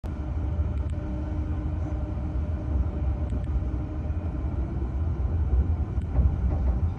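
Passenger train running, a steady low rumble with a faint hum and a few light ticks.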